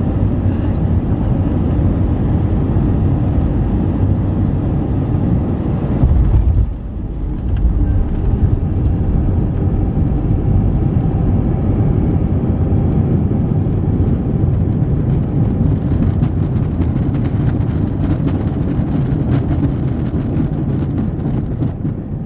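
Cabin noise of an Airbus A319 on landing: a loud, steady rush of airflow and its IAE V2500 engines, heard from a window seat. A sudden low thump comes about six seconds in, followed by a short dip in the noise before it steadies again.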